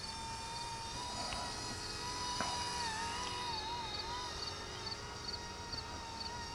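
Small electric RC helicopter (RC ERA EC-135) whining in flight: a thin, steady motor-and-rotor whine whose pitch wavers slightly up and down.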